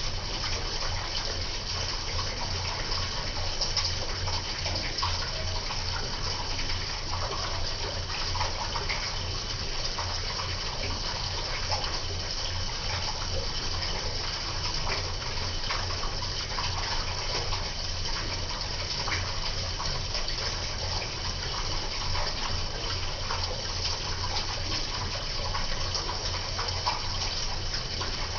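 Electrolux LTE08 top-load washing machine running with a steady rush of water and a low mechanical hum.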